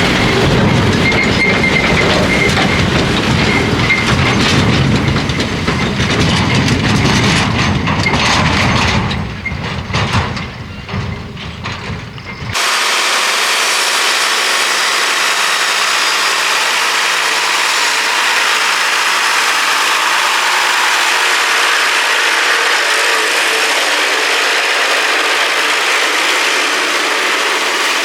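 Heavy truck running with a rattling, clattering mechanical noise, which cuts off abruptly about twelve seconds in to a steady, even hiss.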